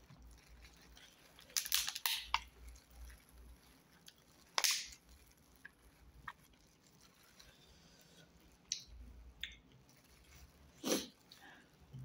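Close-up eating sounds: a person chewing food, with a few short, sharp crinkles and rustles from the thin plastic gloves on her hands. The loudest bursts come about two seconds in, again around four and a half seconds, and near the end.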